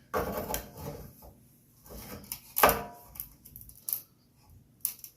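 Scattered knocks, clunks and scrapes of tools and parts being handled on a workbench. The loudest clunk comes about two and a half seconds in.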